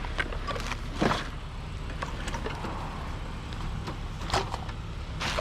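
Scattered knocks and clatters of junk being handled and shifted while rummaging through a pile of household rubbish, the sharpest knock about a second in, over a steady low rumble.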